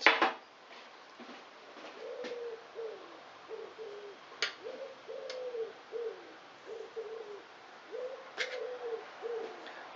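A pigeon-family bird cooing: a run of low, repeated hooting notes, some falling in pitch, starting about two seconds in. A few sharp clicks sound in between.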